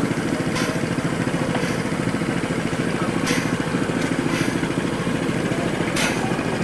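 A small engine running steadily with a fast, even pulse, with short hissing bursts every second or so over it.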